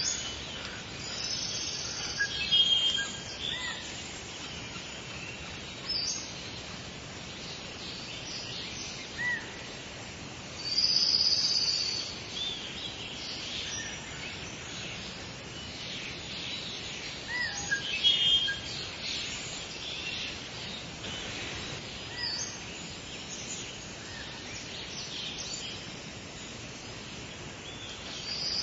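Songbirds chirping and trilling on and off, with bursts of song about 3, 11 and 18 seconds in, over a steady background hiss of outdoor ambience.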